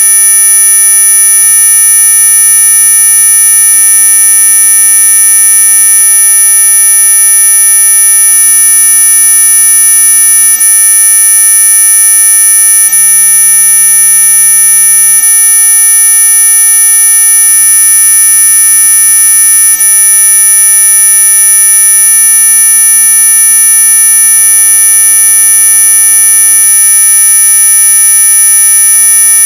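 Synthesized anti-mosquito repellent tone: a loud, steady electronic buzz made of many fixed pitches at once, with the strongest ones very high, near the top of hearing, unchanging throughout.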